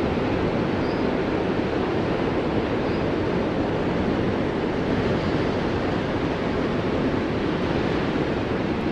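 Steady white noise for sleep masking: an even, unchanging hiss, fullest in the low-mid range.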